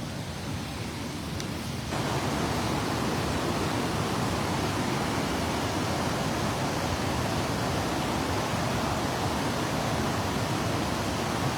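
Steady rush of a river's fast water and waterfall, stepping up in loudness about two seconds in, then holding even.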